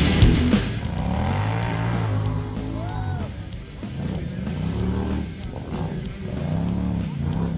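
Heavy rock music cuts off about half a second in. Then an off-road vehicle's engine revs up and down repeatedly, with its pitch climbing and dropping several times and quicker blips near the end.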